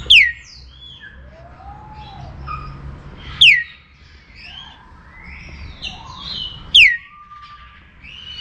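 Zoo birds calling: one bird gives a loud, sharply falling whistle three times, about every three and a half seconds. Many other birds chirp and whistle in between.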